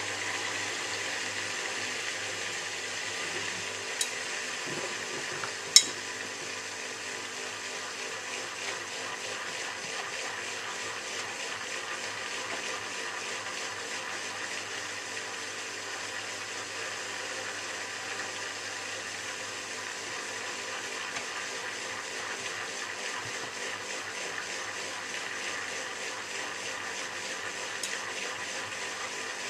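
Miele W3744 washing machine with water rushing steadily into it, as it fills during its wash programme. Two sharp clicks about four and six seconds in, the second louder.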